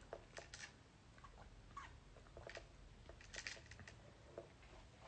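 Near silence with faint, scattered small clicks and taps, like light handling noise.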